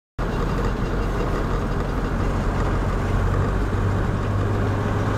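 Steady engine and road noise of a car being driven, cutting in suddenly just after the start.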